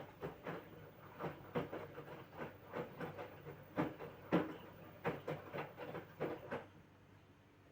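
LG 6.5 kg washing machine drum turning during the wash phase, with the wet laundry and water sloshing and thudding in uneven strokes. It stops about six and a half seconds in, as the drum pauses.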